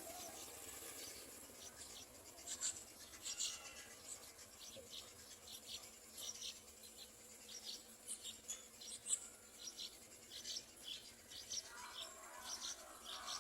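Yellow-vented bulbul nestlings giving faint, short, high-pitched begging calls in irregular clusters.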